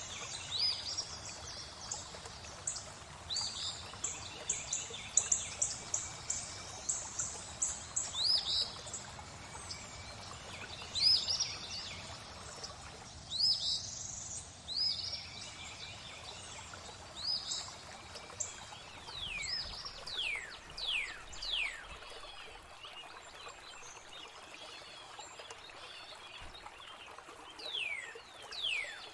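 Flowing water ambience with songbirds calling over it: repeated short chirps through the first half, then runs of quick falling whistled notes twice near the end.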